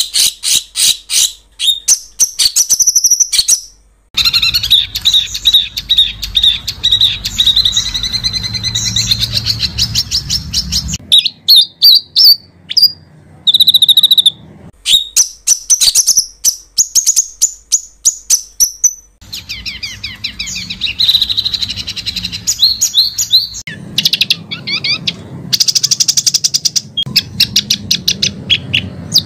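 Recorded songbird song made of fast rolling trills and rapid repeated harsh notes, the 'ngeroll' and 'besetan' phrases used as masteran for training competition songbirds. The recording is spliced, cutting abruptly between takes several times, some with a low hum behind them.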